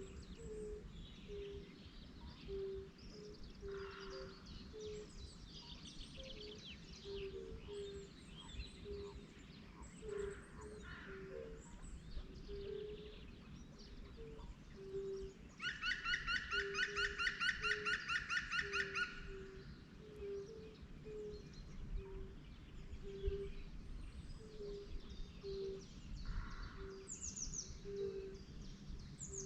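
Birds calling and singing: many high chirps and whistles over a low, short note repeated a few times a second, with a loud, rapid trill lasting about three seconds just past the middle.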